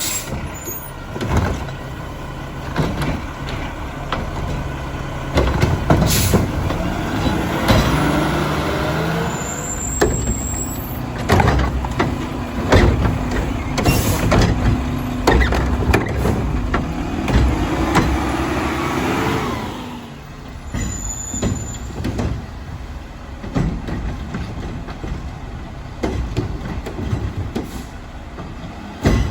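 Mack LR garbage truck's diesel engine running and revving up and down twice, with many sharp clanks and knocks and short air-brake hisses.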